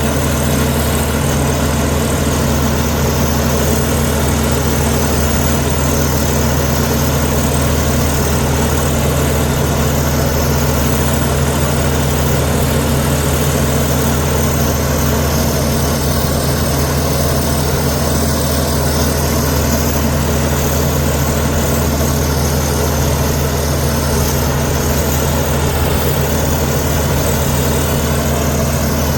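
Komatsu D61EX bulldozer's diesel engine running steadily at an even pitch.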